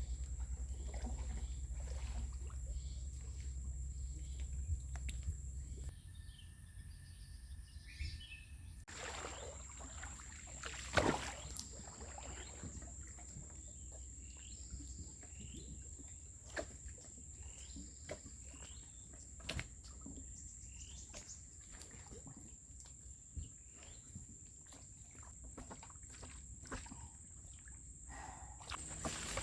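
Outdoor ambience: a steady high-pitched hum with scattered knocks and clicks, over a low rumble that stops about six seconds in.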